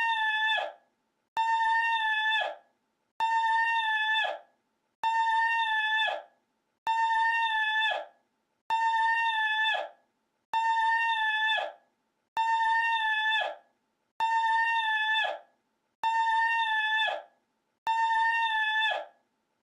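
One short, high-pitched vocal cry repeated over and over as a loop, about once every 1.8 seconds. Each cry holds one steady pitch and then falls away at the end.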